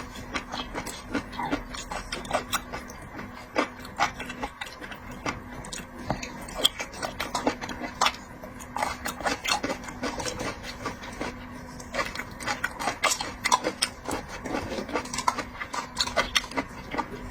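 Close-mic eating sounds: irregular wet clicks, smacks and slurps of a person chewing and sucking seafood, over a faint steady hum.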